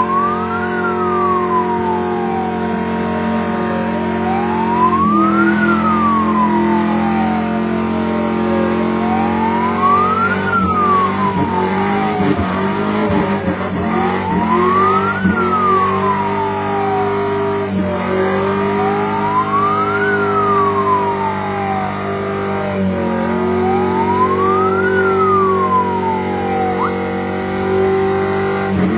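A wailing siren sweeping up and down in pitch about every five seconds, six sweeps in all, over a steady low drone whose pitch shifts in steps a few times.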